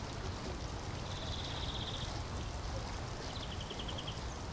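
Two short, rapid trills from a bird over steady outdoor background noise: one about a second in, and a slightly lower one about three seconds in.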